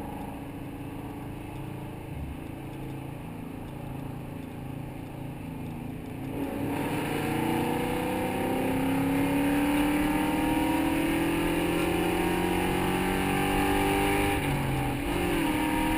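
Mustang V8 engine heard from inside the car, cruising steadily, then opening up about six seconds in for a hard pull, its pitch climbing for several seconds. Near the end the pitch drops once at a gear change.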